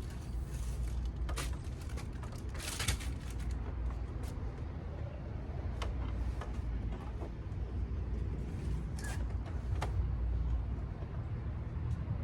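Scattered knocks, scrapes and rustles of household items being handled and shifted, the loudest about three seconds in, over a steady low rumble.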